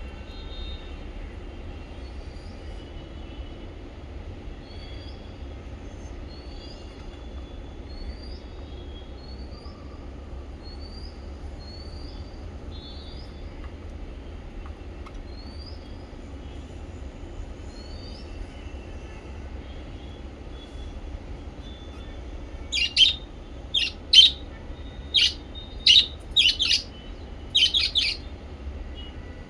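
Small pet parrots chirping: a run of faint, short rising chirps, then, from about 22 seconds in, about seven loud, sharp calls in quick succession. A steady low hum runs underneath.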